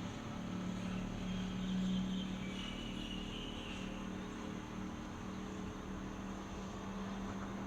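Steady background noise: an even hiss over a low steady hum, with a faint high warbling tone about two to four seconds in.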